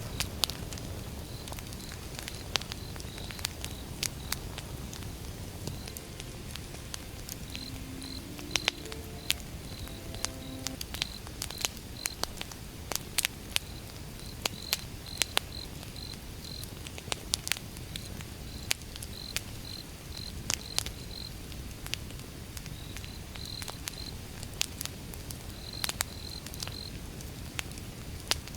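Wood campfire burning, crackling with frequent sharp pops and snaps over a low steady rumble of the flames. Insects chirp alongside in short high-pitched clusters.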